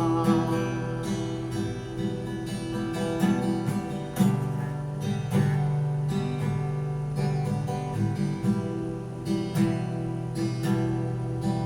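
Music: an acoustic guitar strumming chords in an instrumental passage of a Thai folk-style song, with no singing.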